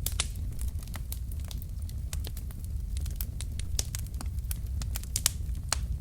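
Logs burning in a fireplace, crackling with irregular sharp pops and snaps over a low steady rumble of the fire, with a few louder pops about five seconds in.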